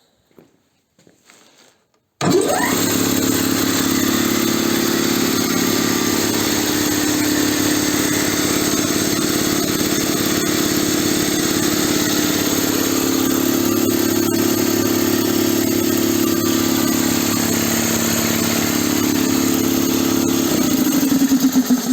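Soviet SO-7B piston compressor, driven by a 380 V three-phase electric motor, starts suddenly about two seconds in with a brief rising whine as it spins up, then runs steadily. It runs unloaded with its outlets open, building no pressure, and near the end it is switched off and slows down with falling pitch.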